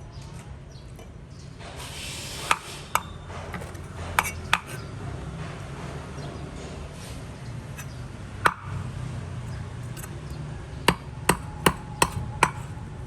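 About ten sharp knocks or taps on a hard object: a pair, then another pair, a single one, and a quick run of five near the end. A steady low hum runs underneath.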